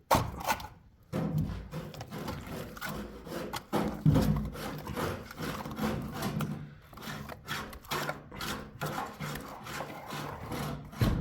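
Repeated, irregular rubbing and scraping strokes, like hard material being worked by hand.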